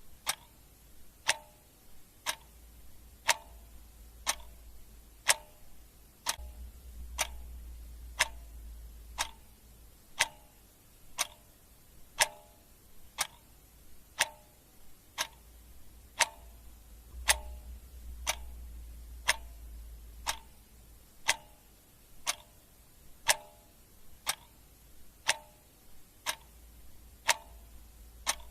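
Clock ticking steadily, one sharp tick about every second. A faint low hum swells twice underneath.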